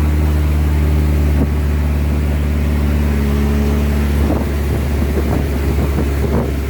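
Motorboat engine running steadily with a low, even drone; about four seconds in its note becomes rougher and less even.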